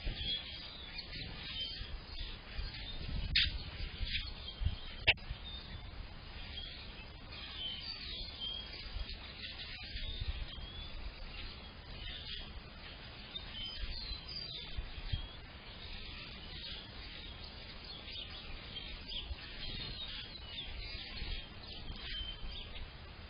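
Several small songbirds chirping and singing at once, with short calls overlapping throughout over a low rumble. A sharp click about three and a half seconds in, and a louder one about five seconds in.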